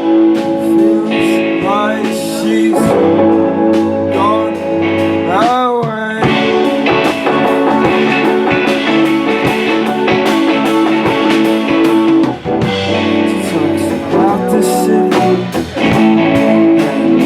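Live band playing an instrumental stretch of a guitar-led rock song: guitar over bass and drums, with several bent notes sliding up and down in pitch.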